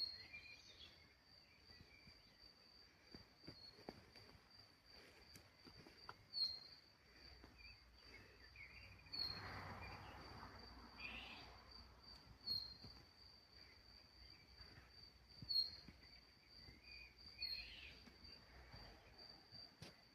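Faint outdoor ambience of an insect trilling on one steady high note, with brief chirps every few seconds and a soft rush of noise about nine seconds in.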